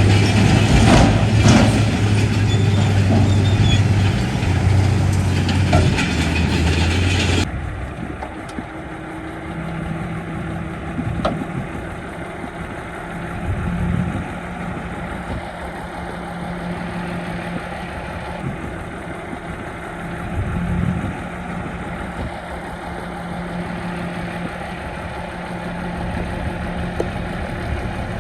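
Heavy diesel engines of earthmoving machinery running. The sound is loud for the first seven seconds or so, then drops abruptly to a quieter, steady engine sound with a couple of brief swells.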